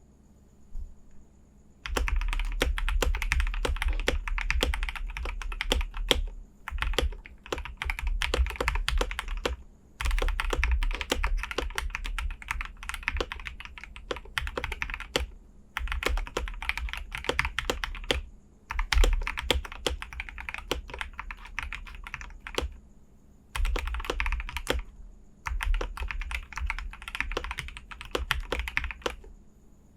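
Fast typing on a KBD67 Lite mechanical keyboard with Glorious Lynx linear switches lubed with Krytox 205g0 and fitted with TX switch films, under GPBT keycaps. The typing starts about two seconds in and runs in long bursts of rapid keystrokes, broken by short pauses.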